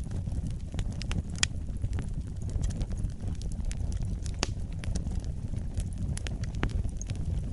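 Fire in a fireplace crackling, with frequent irregular sharp pops over a steady low rumble of the flames; one of the strongest pops comes about a second and a half in.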